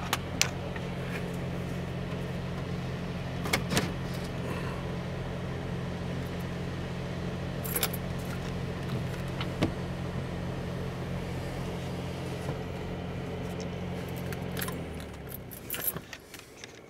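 Car engine idling, heard from inside the cabin, as a steady low hum that cuts off about fifteen seconds in. Scattered clicks and rattles from handling run throughout, with a small cluster just after the hum stops.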